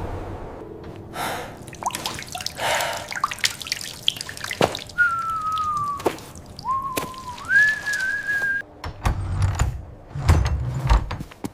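A whistled tone sliding down, then dipping and rising to hold a higher note, among scattered clicks and knocks, with a few low thumps near the end.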